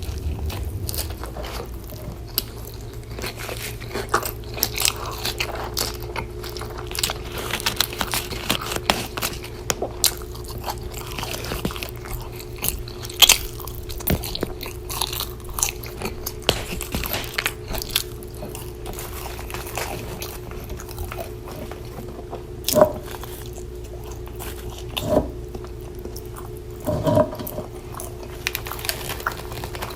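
Close-miked eating sounds of In-N-Out burger and fries: irregular biting, chewing and wet mouth clicks, a few louder than the rest. A steady low hum runs underneath.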